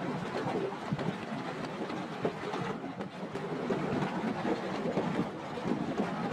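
Hailstones pelting down in a severe hailstorm: a dense, continuous clatter of many small hard impacts.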